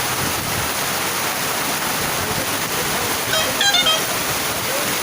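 Heavy rain and rushing floodwater making a steady hiss, with a brief pitched sound a little past halfway.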